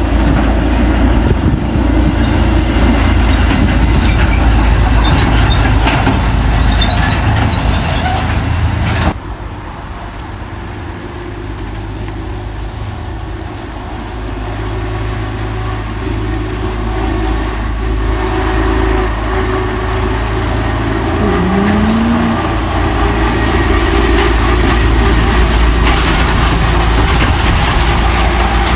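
Heavy diesel truck engines labouring under load on a climb. The sound cuts abruptly about nine seconds in to a quieter truck, whose engine noise then builds steadily as it approaches.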